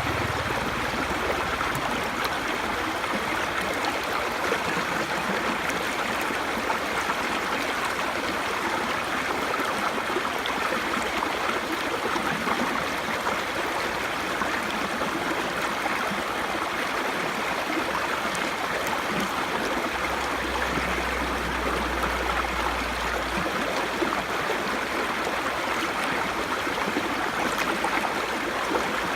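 Small brook babbling: a steady rush and gurgle of running water.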